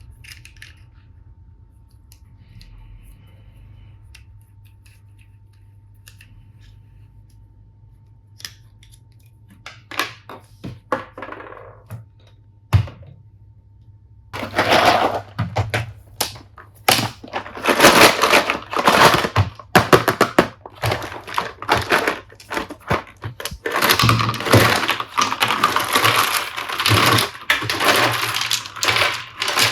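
Plastic toy tools and packaging being handled: scattered light clicks and taps, then from about halfway a dense crackle of crinkling plastic and clattering pieces.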